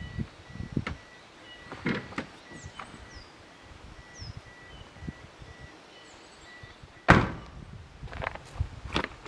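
Several separate knocks and thumps, the loudest a sharp thud about seven seconds in followed by a few smaller knocks, with short high bird chirps in the background.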